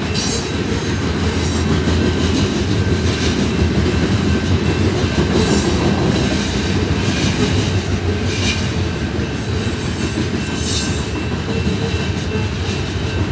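Freight train of covered hopper cars rolling past: a steady, loud rumble of wheels on rail, with sharper clatter from the wheels every couple of seconds.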